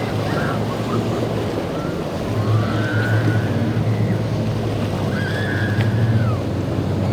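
Motorboat engine running steadily over the noise of waves and wind on the microphone.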